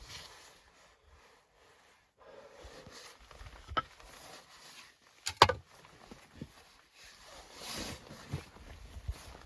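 Handling sounds: a few sharp knocks, the loudest a quick double knock about five and a half seconds in, among soft thuds and a stretch of rustling near the end.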